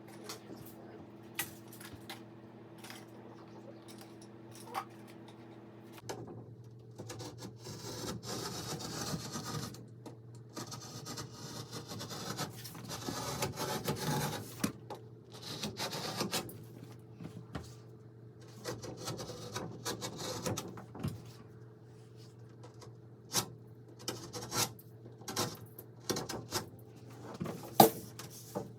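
Irregular hand scraping and rubbing strokes on a hard surface, starting about six seconds in, with scattered sharp knocks, the loudest near the end. A steady low hum runs underneath.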